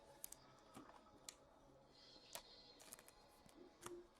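Near silence, with a few faint scattered clicks and ticks of trading cards being handled and shuffled.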